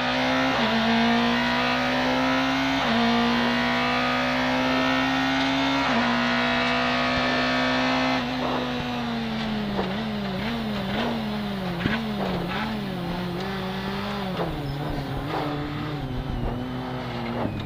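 Corsa kit car rally car's Bill Falconer Engineering engine, heard from inside the cabin, running hard under load. Its note holds nearly steady for about eight seconds, then dips and wavers in a run of short throttle changes and sinks lower before picking up again near the end. Several sharp knocks come in the second half.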